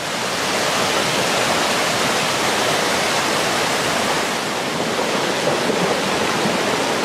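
Swollen river in flood, the fast floodwater rushing with a steady, loud, unbroken noise.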